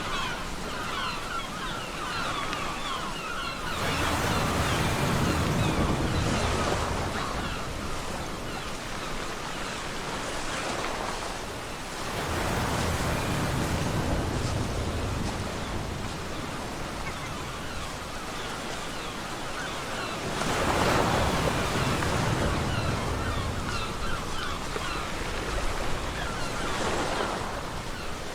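Ocean surf washing on a beach: a steady hiss of water that swells three times as waves break, about every eight or nine seconds.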